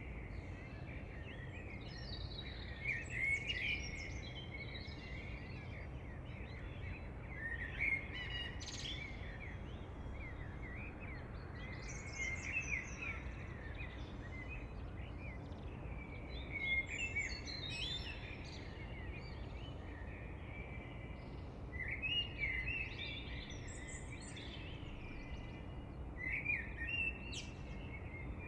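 Songbirds singing: short phrases of chirps that recur every four to five seconds, over a steady low background rumble.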